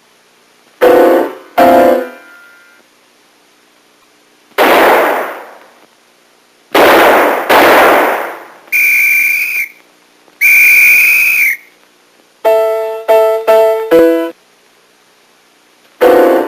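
Cartoon soundtrack of separate short sound effects and musical stings: two sharp pitched chord hits about a second in, then three noisy hissing bursts, two held high whistle tones, and four short stabbed notes near the end.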